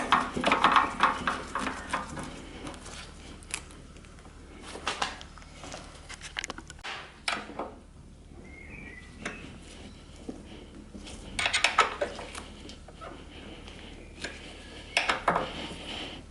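Metal tools and motorcycle parts clinking and knocking in scattered bursts while the bike is being put back together.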